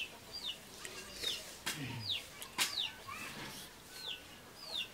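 A bird calling over and over: short, high chirps that slide down in pitch, about two a second. A couple of sharp clicks come about two seconds in.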